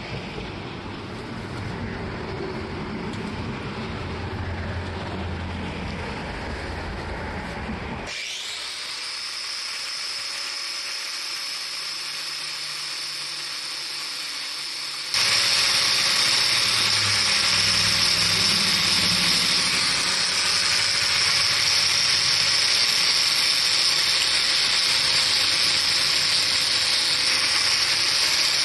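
Electric power tool running with a high steady whine. It spins up about eight seconds in and gets louder about fifteen seconds in.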